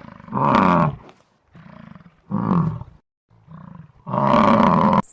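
Bison bellowing: a series of deep, roaring calls, louder ones alternating with softer ones, each call sliding down in pitch.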